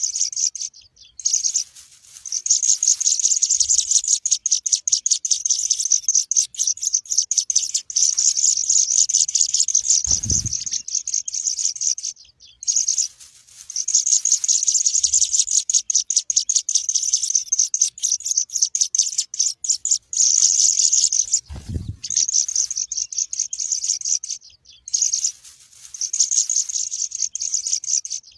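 Burung pipit (munia) chicks chirping, high-pitched, rapid and continuous, in long runs broken by short pauses. Two low thumps about ten and twenty-two seconds in.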